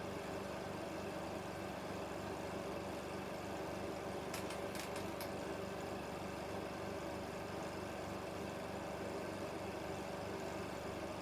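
16mm film projector running with a steady mechanical whirr and hum, with a few faint ticks about four to five seconds in.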